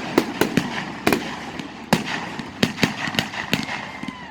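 Fireworks going off: a dozen or so sharp bangs and cracks at irregular intervals.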